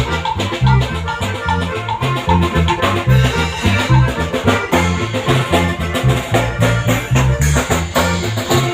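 Norteño band playing an instrumental passage: a bass line stepping between notes about twice a second under steady drums.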